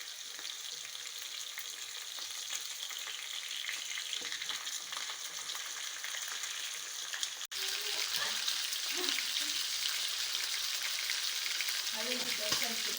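Bacon-wrapped chicken breasts sizzling in hot oil in a pan with garlic and onions, a steady hiss of frying. It breaks off for an instant about halfway, then comes back louder.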